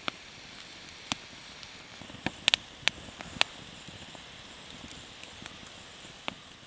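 A series of sharp, irregular clicks and knocks over a faint steady hiss, several coming close together about two and a half to three and a half seconds in.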